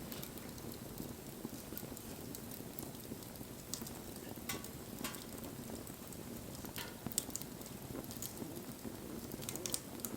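Wood bonfire burning: a steady low rush of flame with irregular sharp crackles and pops from the burning wood, a couple of louder pops near the end.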